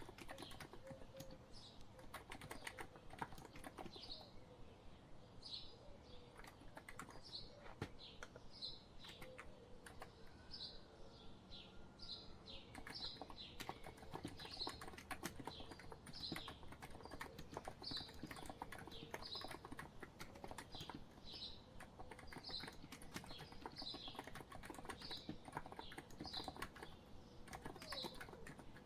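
Steady typing on a COX Empress electro-capacitive keyboard, dense soft key clicks. A bird chirps in the background about once a second from a few seconds in.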